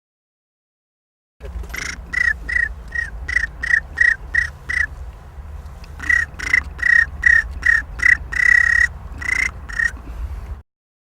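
A person imitating Canada goose honks with the voice: a series of short, evenly spaced honks, about two or three a second. A second series follows a brief pause, with one longer honk near the end.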